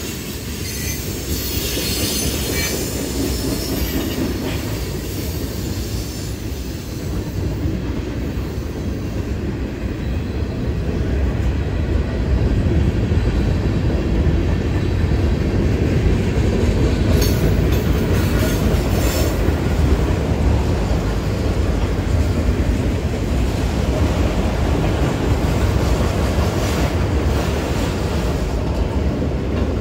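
Eastbound manifest freight train rolling over the crossing: a steady heavy rumble of steel wheels on rail that grows louder about halfway through, with brief high wheel squeals near the start and again in the middle.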